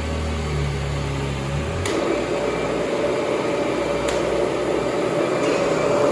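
Kirby G4 upright vacuum cleaner running steadily, its motor and fan giving a constant whine over a rushing of air. A lower hum underneath cuts off about two seconds in.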